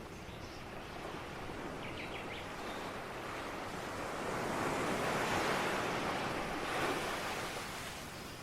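Ocean surf: a wave builds, breaks about halfway through and washes in, then the rush fades back down.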